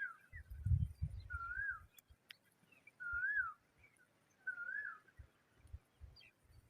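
A bird repeating a short whistled call, one note that rises and falls, about every second and a half, four times. Low dull thuds sit underneath, loudest about a second in.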